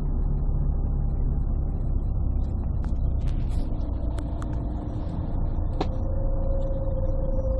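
Inside a 1998 Scania CN113CLL city bus: its Scania DSC11 diesel engine gives a low, steady rumble. A few sharp clicks and rattles come in the middle, and a faint steady tone starts about six seconds in. The sound is muffled and bass-heavy through a partly covered phone microphone.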